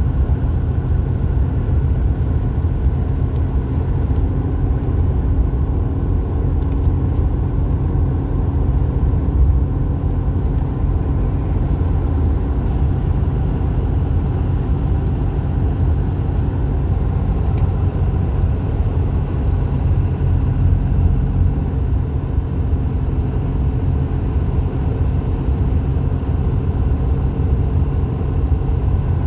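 Mercedes-Benz Actros truck driving at steady speed on the highway: a continuous low rumble of engine and road noise with a faint steady engine hum.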